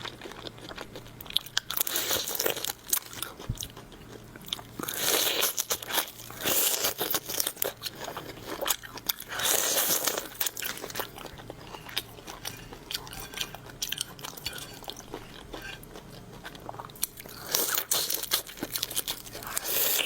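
A person biting and chewing seafood with crunchy, crackling bites. The loud bites come in spells a few seconds apart, with quieter chewing between them.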